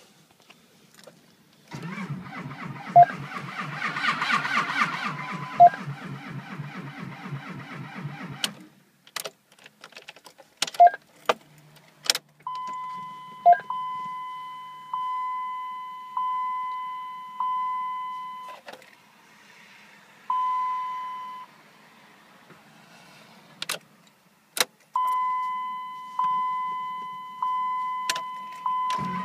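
A 2004 Dodge Ram 2500's 5.9 Cummins diesel cranks over on the starter for about seven seconds and does not fire: a cold no-start at −38 °C without a block heater. A few sharp clicks follow. Then the cab's warning chime dings about once a second in two longer runs and one short one.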